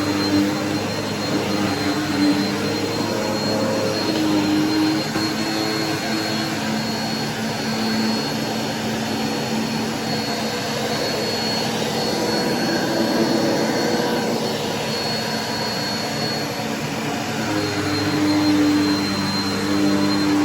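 Bissell vacuum cleaner running while vacuuming: a steady motor roar with a thin high whine, its hum dipping and rising in pitch a few times.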